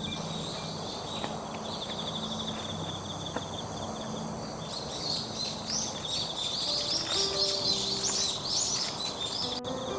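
Forest ambience: insects trilling steadily in a high pulsing note, and from about halfway a bird singing in quick, high chirps. Faint piano music comes in near the end.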